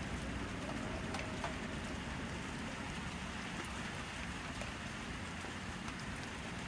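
Steady rain falling, with a few louder individual drops ticking now and then.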